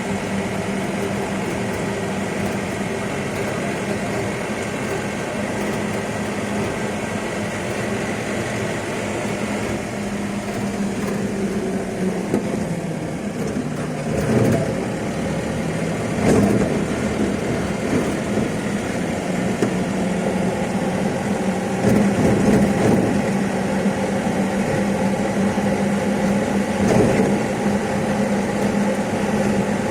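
Steady mechanical hum, like a small engine or motor running, dipping briefly in pitch about twelve seconds in, with a few louder knocks.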